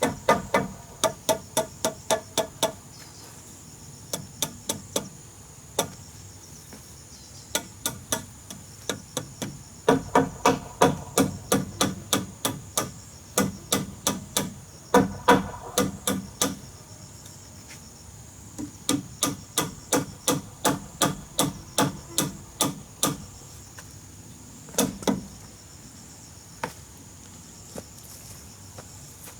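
A hammer driving nails into wood, in runs of quick blows several a second with short pauses between runs, each blow ringing briefly. Insects buzz steadily and high-pitched in the background.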